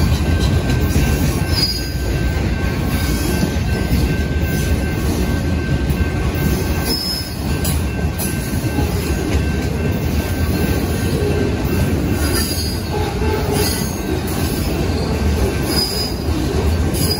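Freight train of boxcars rolling past at close range: a steady rumble and clatter of steel wheels on the rails, with brief high wheel squeals a few times.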